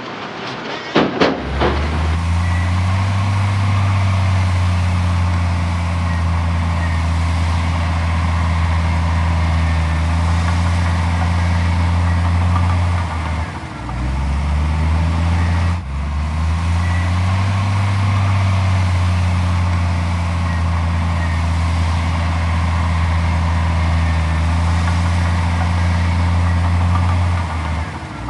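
Heavy diesel engine of earthmoving machinery running hard at steady revs. A few knocks come in the first second or so. About halfway through the revs drop and climb back, with a sharp knock, and they drop again near the end.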